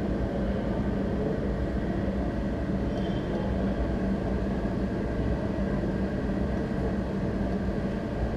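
A steady machine drone with a constant low hum, unchanging throughout, with no hammer blows.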